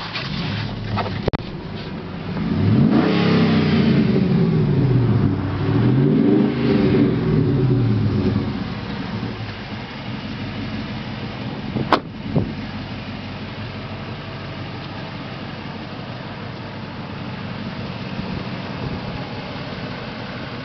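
Dodge Ram Rumble Bee's 5.7-litre Hemi V8 revved twice, its pitch climbing and falling each time, then settling back to a steady idle. A single sharp click about twelve seconds in.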